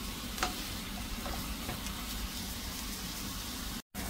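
Sliced mushrooms and onion frying in butter in a nonstick pan: a steady sizzle, with a few light taps of a wooden spatula in the first two seconds. The sound cuts out for a moment near the end.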